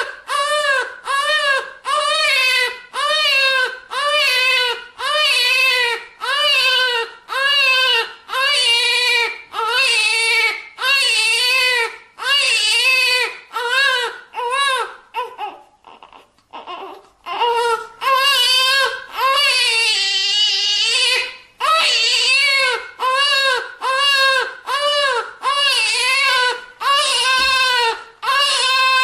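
Newborn baby crying: a fast run of short, arching wails, about two a second, broken past the middle by a brief pause for breath, then one long drawn-out wail before the quick wails resume.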